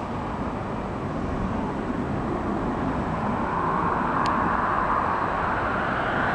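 Intermodal freight train rolling past: a steady rumble and rolling noise from the wagons that grows slightly louder in the second half, with one sharp click about four seconds in.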